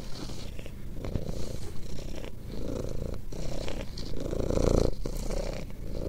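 Domestic cat purring steadily while being stroked. The purr comes in waves, broken by short dips with each breath.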